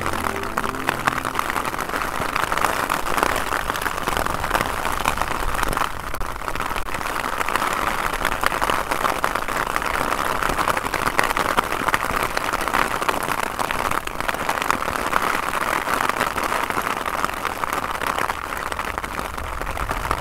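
Heavy rain pouring steadily in a thunderstorm, a dense, even hiss.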